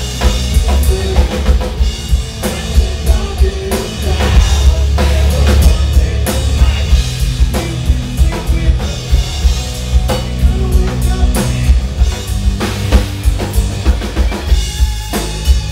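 Rock band playing loud, with a pounding drum kit of bass drum and snare, heavy bass and guitars.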